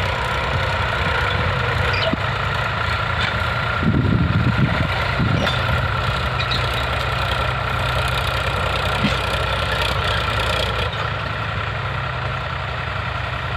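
A tractor's motor running steadily with a constant high whine over it; a short, louder rumble comes about four seconds in.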